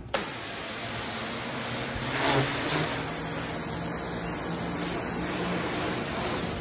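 VEVOR pressure washer kicking on suddenly as the trigger is pulled, then running steadily with the loud hiss of its high-pressure water spray over a low motor hum. The spray briefly gets louder a little over two seconds in.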